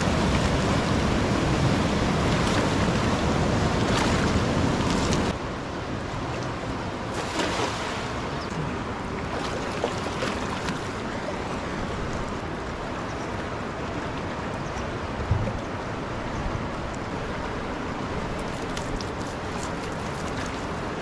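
Fast-flowing river water rushing, a steady roar-free hiss of running water that drops in level about five seconds in, with a few faint clicks.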